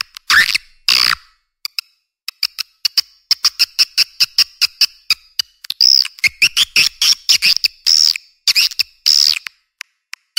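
Swiftlet calls from a swiftlet-house lure recording: fast trains of dry clicks mixed with longer buzzy, twittering chirps. There is a brief pause a little over a second in, then the clicking runs on steadily with louder chirps near the end.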